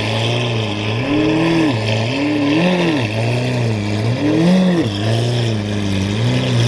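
Lamborghini engine idling and being revved repeatedly, about five quick throttle blips, each rising and falling in pitch over about a second with the idle returning in between.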